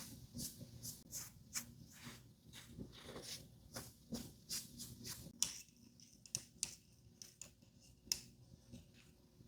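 Makeup tools working on a mannequin face: a run of short, crisp taps and scratchy brushes, a few a second, thinning out after about six seconds.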